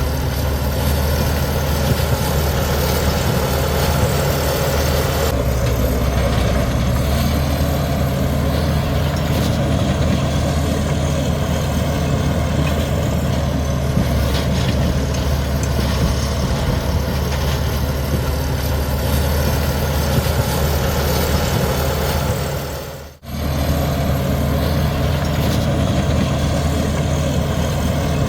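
Komatsu D61EX bulldozer's diesel engine running steadily under load while pushing soil, with a faint high whine above it. The sound cuts out for an instant near the end and then resumes.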